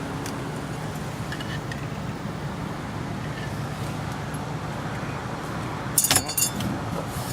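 A steady low hum of vehicle noise, with a brief, sharp metallic jingle about six seconds in.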